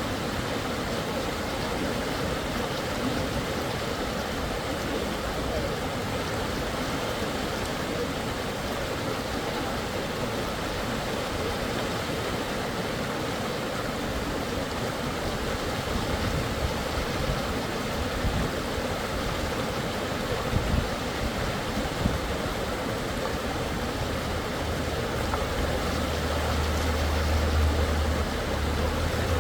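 Fast-flowing river water rushing steadily, with a low rumble near the end.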